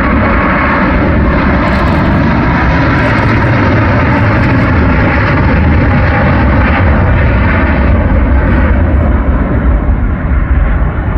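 Jet airliner engines running loud and steady, with a faint high whine that fades within the first second. The noise eases off slightly near the end.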